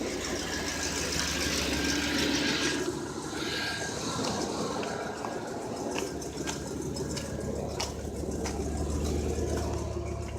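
1992 GMC Sierra 3500 HD pickup idling: a low steady engine rumble under a steady hiss, with a few faint clicks.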